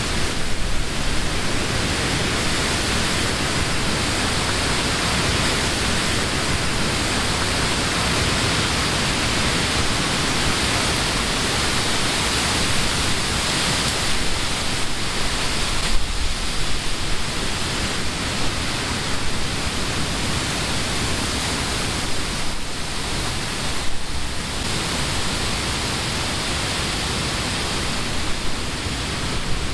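Summer wind blowing through leafy trees: a steady rushing of leaves, swelling in brief stronger gusts about halfway through and again later on.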